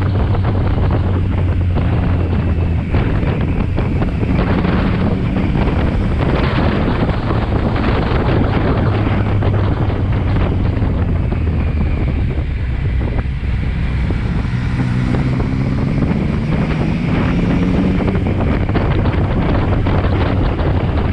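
Motorcycle riding at speed: engine running under heavy wind noise on the microphone. Past the middle the engine note drops away briefly, then climbs as the bike accelerates again.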